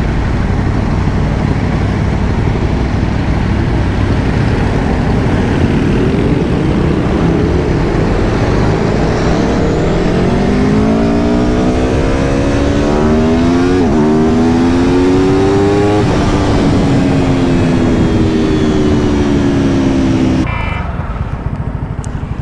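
Aprilia Tuono V4 Factory's V4 engine pulling under a steady rush of wind and road noise. Its revs climb from about ten seconds in, dip briefly and climb again, then fall steadily as the bike comes off the throttle. The noise drops off suddenly near the end.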